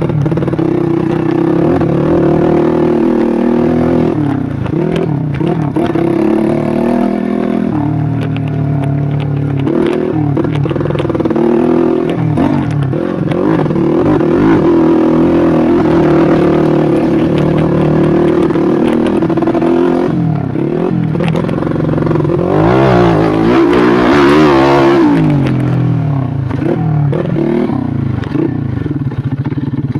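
Modified Yamaha Jupiter Z 130cc four-stroke single-cylinder engine running under load while riding a dirt trail, the revs rising and falling, with rattling from the bike over rough ground. About three quarters of the way through it revs harder, the pitch climbing and falling again.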